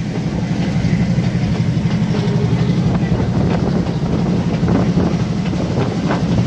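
Passenger train running along the track: a steady low rumble of wheels on rails, heard from an open carriage doorway, with some clattering over the rails in the second half.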